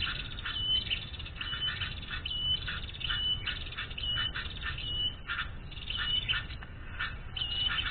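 A bird calling over and over: a short, even, high whistle about once a second, with quick chattering chirps between the whistles.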